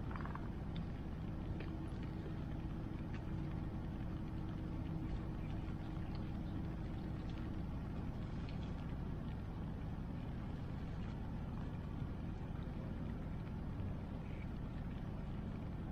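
Wood fire crackling with scattered small pops over a steady low rush of river water and rain. A faint steady hum runs through the first half.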